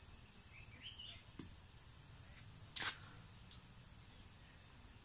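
Quiet background with a few faint bird chirps about a second in, and two brief hissy bursts about three seconds in.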